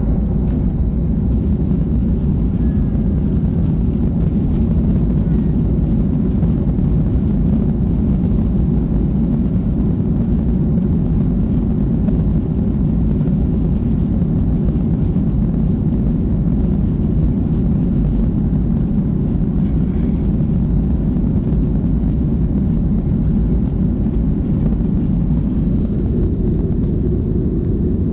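Boeing 737-300's CFM56-3 turbofan engines running steadily, heard from inside the passenger cabin as a deep, even rumble with a faint high whine above it.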